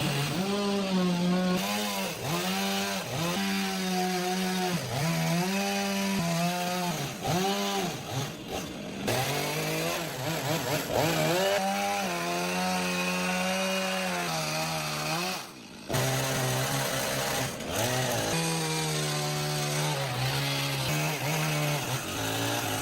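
Chainsaw cutting through the logs around a cabin's window opening. Its engine note sags each time the chain bites into the wood and climbs again between cuts, repeating about once a second. The sound drops out briefly about two-thirds of the way through.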